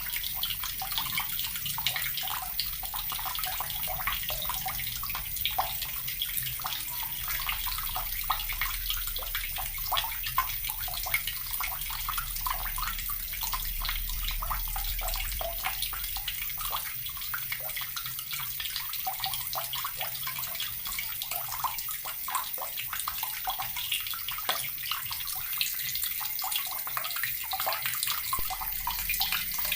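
Water running from a tap in a steady stream, a continuous hiss with many small splashes in it.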